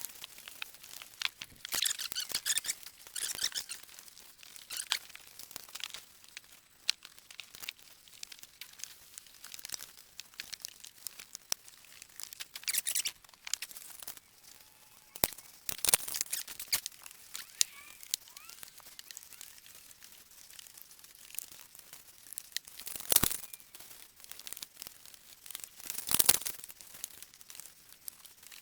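Paintbrush strokes brushing and dabbing liquid sealant onto a bus roof: irregular scratchy, rustling swishes in bursts, with small knocks and clicks between them, the strongest about 16, 23 and 26 seconds in.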